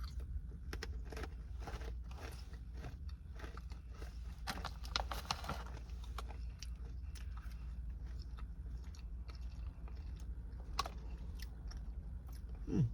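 Someone crunching and chewing hard pretzels, with a dense run of crisp crunches in the first half that thins to scattered crunches later.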